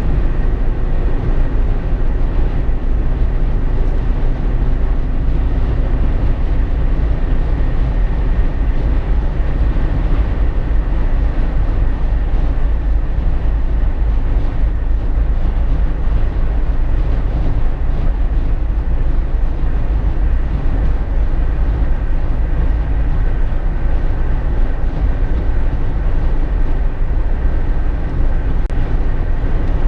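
Steady road noise inside a Jeep Wrangler JK's cabin while driving: a constant loud low rumble of tyres, engine and wind, with a faint drone over it.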